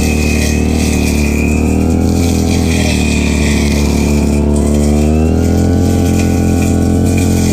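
Stihl FR3001 backpack brush cutter's two-stroke engine running at high throttle while cutting grass. Its pitch wavers and shifts suddenly a little past halfway as the load on the cutter changes.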